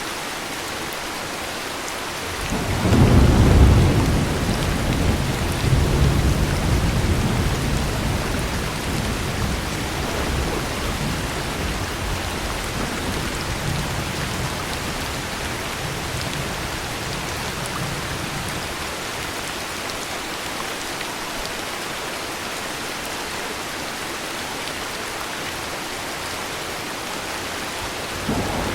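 Steady heavy rain with a long roll of thunder: it breaks out about three seconds in, swells again around six seconds, and rumbles away slowly over the next ten seconds or so, while the rain hiss continues evenly. A fresh rumble begins right at the end.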